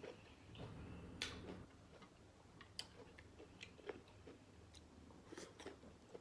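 Faint close-up chewing, with soft wet mouth clicks and smacks scattered through.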